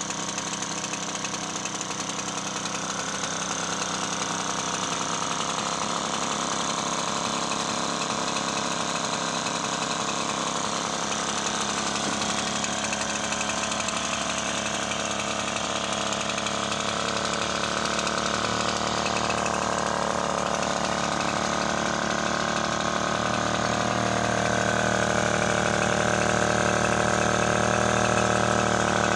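Effzett two-stroke outboard motor running steadily. Its pitch wavers a little midway, and it grows slightly louder toward the end.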